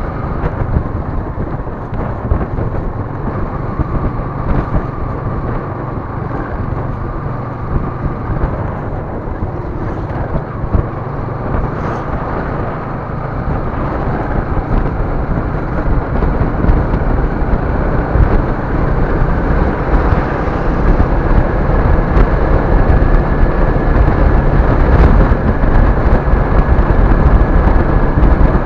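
A vehicle on the move: steady engine and road noise with a low, buffeting rumble, getting louder through the second half.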